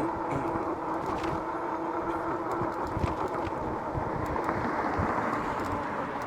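Riding an electric bike on the road: steady rushing of wind and tyre noise, with a steady hum from the bike's hub motor that fades about halfway through.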